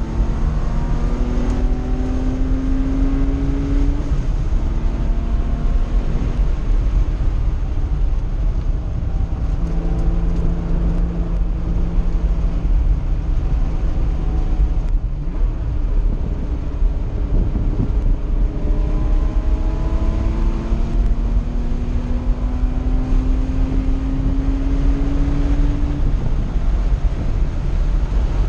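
Air-cooled 3.0-litre flat-six of a 1982 Porsche 911SC with SSI headers and a Dansk muffler, heard from inside the cabin while being driven hard on track. The engine note climbs under acceleration, falls off briefly about halfway through, then climbs again in a long pull before dropping near the end, over a constant rumble of wind and road noise.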